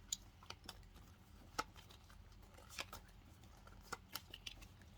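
Faint handling of trading cards: a few scattered light clicks and ticks as the cards are slid and flipped over one another.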